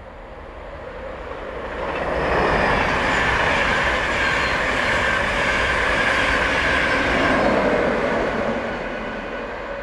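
A train passing through the station: it swells up over the first two seconds, stays loud for several seconds, then fades away near the end.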